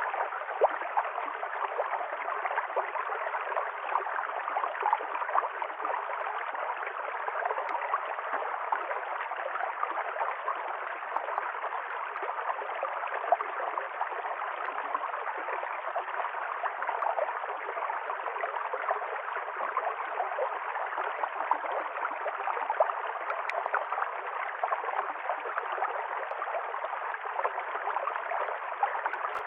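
River stream flowing steadily over stones, a continuous rush of water with small gurgles and splashes.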